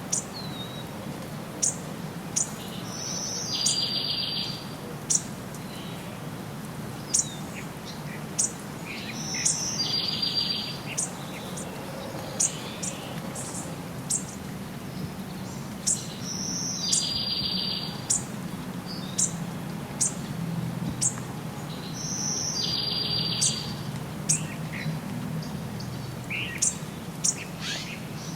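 Wild birds singing: one bird repeats the same short, trilled song phrase about every six or seven seconds, with short, sharp, high chirps scattered in between, over a steady low rumble.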